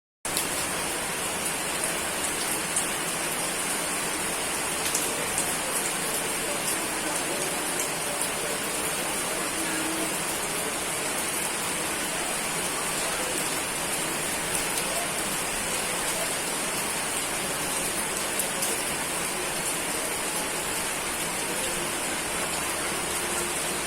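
Rainstorm: steady, dense rain falling on surfaces, with scattered small drop ticks. It cuts in suddenly at the very start and holds an even level throughout.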